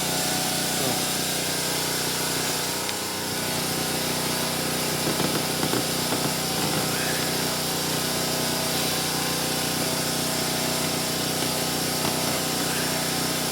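A steady machine hum at a constant pitch, like a small motor running, with a brief dip about three seconds in.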